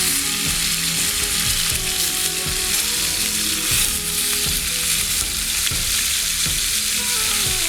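Cornish game hen searing in a cast iron skillet: a steady, dense frying sizzle.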